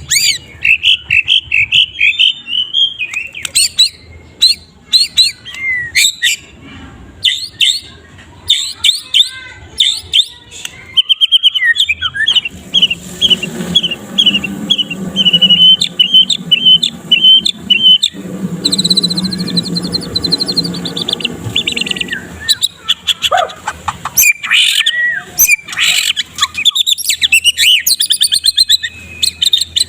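White-rumped shama singing a long, varied song of rapid repeated notes and trills, with phrases copied from other songbirds. Partway through it gives a steady run of quick repeated notes, about three a second.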